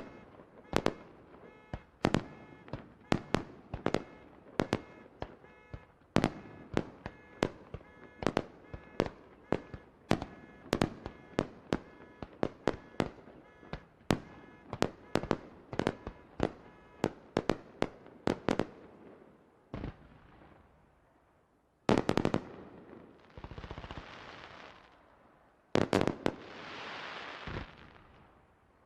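Fireworks display: a rapid barrage of sharp bangs from exploding shells, two to four a second, for most of the first twenty seconds. After a short lull, two loud bursts each trail off into a few seconds of crackling hiss.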